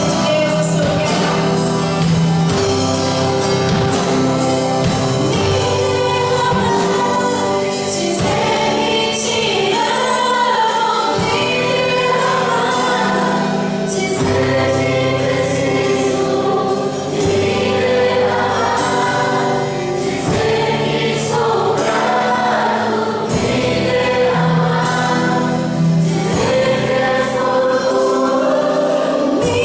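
Gospel worship music: a group of singers with a band playing a song of praise.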